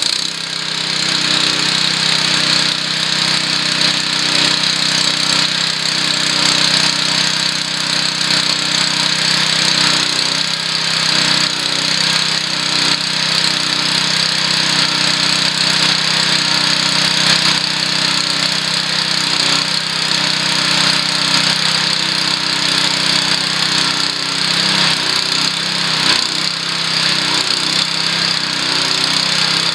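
Honda WB20XT semi-trash pump's small engine running steadily at speed after a pull-start, the pump not yet drawing water through the hose.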